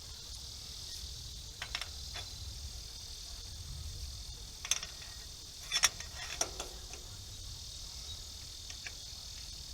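Scattered sharp metal clicks and clinks of a wrench working a bolt on an early-1950s hay rake, the loudest about six seconds in. A steady high chirring of crickets runs underneath.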